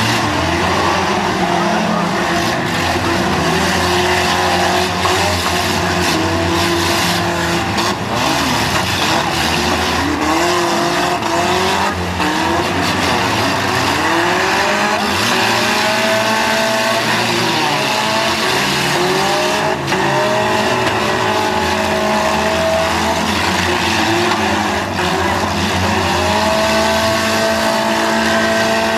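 Several demolition derby cars' engines running and revving hard, their overlapping pitches rising and falling as they accelerate and back off, with scattered sharp knocks.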